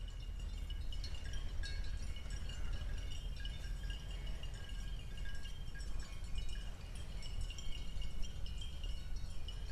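Outdoor ambience: a steady low rumble under high, thin, ringing calls that come and go. There is no mooing.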